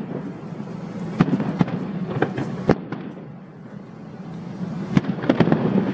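Aerial fireworks bursting: sharp bangs and cracks at irregular intervals over a steady low background rumble. The loudest crack comes a little under three seconds in, followed by a short lull and a new cluster of bangs near the end.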